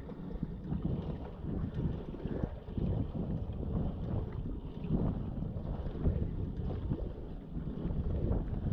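Wind rumbling and buffeting the microphone as a fishing kayak trolls along the river, with faint water sounds along the hull.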